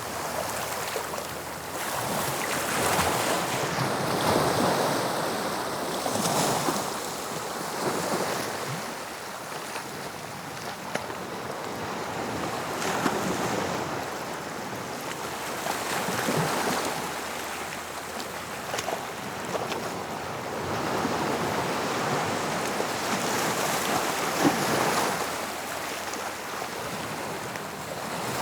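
Sea waves breaking on a shore and washing back, a swell rising and falling every few seconds, with wind buffeting the microphone.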